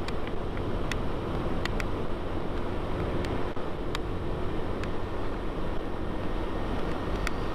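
Yamaha Vino 125 scooter's single-cylinder four-stroke engine running at a steady cruising speed, mixed with wind rushing over the rider's microphone. A few sharp clicks are scattered through it.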